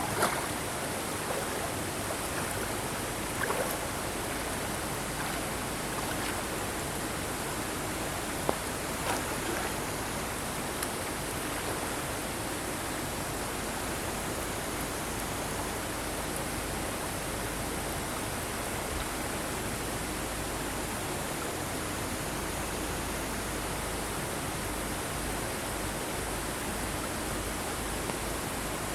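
Mountain stream rushing steadily over rocks, a constant even water noise. A few short sharp taps stand out in the first ten seconds.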